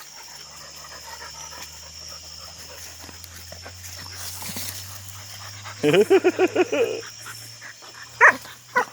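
Dog barking in a quick run of about eight barks about six seconds in, then two more short barks near the end, while going after an animal it has cornered. A steady low hum runs underneath.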